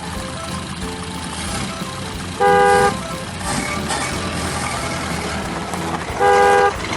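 A vehicle horn honking twice, two short blasts about four seconds apart, over steady background noise.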